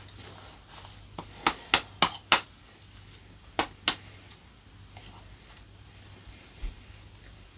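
Close-miked chewing of a chicken drumstick: a quick run of about five sharp, wet mouth smacks a second or so in, then two more a couple of seconds later.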